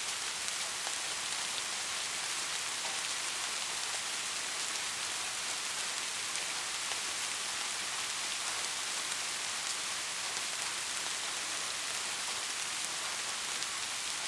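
Steady rain falling: a dense, even hiss sprinkled with countless small drop ticks.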